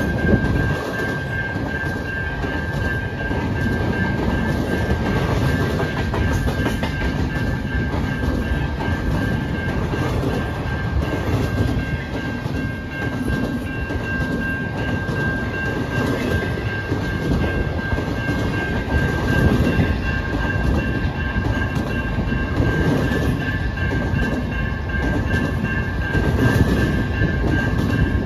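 A train rolling past, wheels clattering on the rails, with a steady high-pitched squeal running through it.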